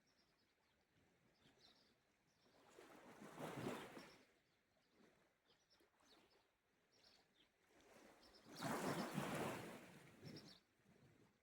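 Small sea waves washing onto the shore twice, each one swelling and fading over a second or two. Faint bird chirps can be heard between them.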